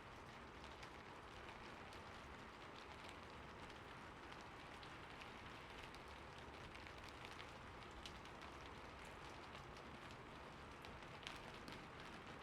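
Faint, steady rain falling, with many small scattered drop ticks.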